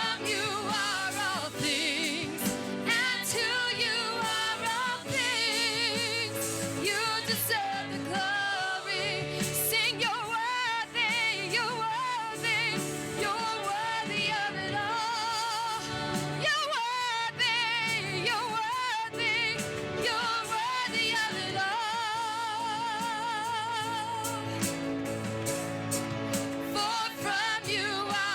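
Gospel-style worship song: singing voices with vibrato over instrumental accompaniment with sustained bass notes.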